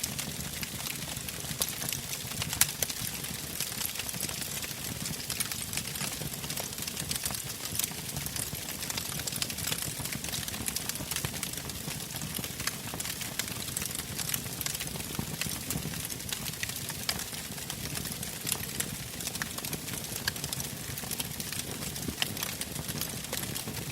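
Wood fire burning in a fireplace: a steady hiss with frequent small sharp crackles and pops, one louder pop about two and a half seconds in.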